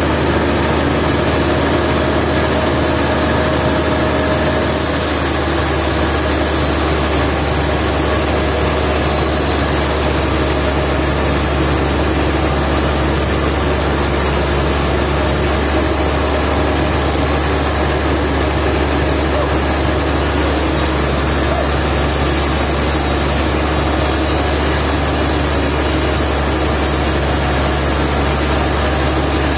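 Sawmill machinery running steadily with a heavy engine-like drone. About five seconds in, a high hiss comes in and holds for the rest of the time.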